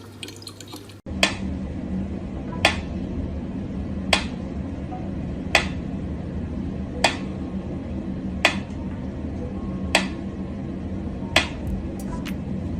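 Sharp clicks or taps repeating evenly about every second and a half, over a steady low hum.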